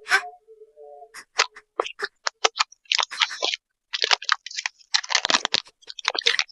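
Blind-box packaging crinkling and rustling as it is handled and opened, in quick irregular crackles and scratches that grow denser from about three seconds in.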